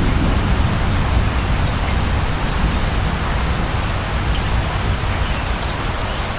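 Steady heavy rain with a deep low rumble underneath, the tail of a distant thunder roll fading away near the start.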